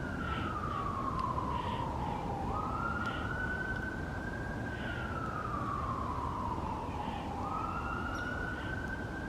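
A distant siren wailing: a single tone that rises quickly and then slides slowly down, cycling about every five seconds.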